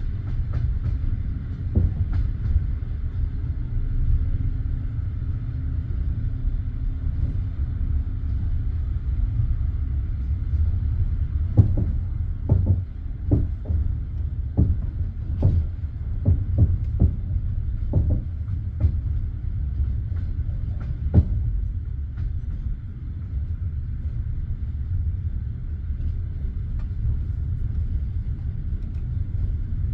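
Passenger train carriage running along the track, a steady low rumble of the wheels on the rails. From about halfway through, a quick run of sharp wheel clacks for several seconds as the wheels cross rail joints or points, then the rumble alone again.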